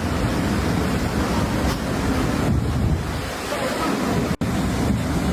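Rushing water with wind buffeting the microphone, a steady heavy noise that cuts out for an instant about four seconds in.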